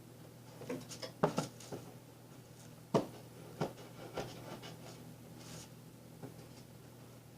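Irregular knocks, taps and scraping of a cardboard box and a perch being handled, with the two loudest knocks about a second and three seconds in.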